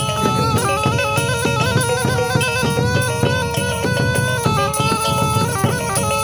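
Minangkabau pupuik reed pipe playing a continuous, stepping melody with a nasal, bagpipe-like tone over a steady, fast percussion beat from the talempong ensemble.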